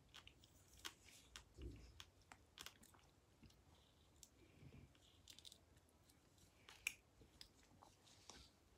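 Quiet chewing and wet mouth sounds of someone eating spoonfuls of soft tamarillo flesh, with scattered small clicks and one sharper click about seven seconds in.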